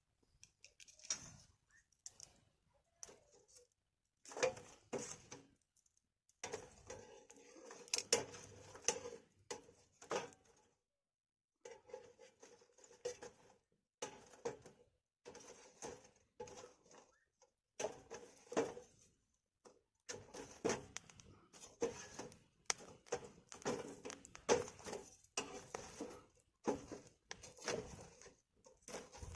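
Firewood burning and crackling, with irregular runs of sharp pops and snaps broken by brief lulls.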